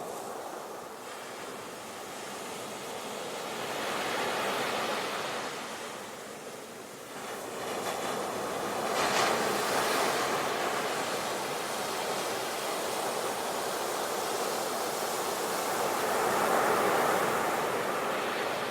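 Sea waves breaking, the surf swelling and easing in slow surges, loudest about four, nine and seventeen seconds in.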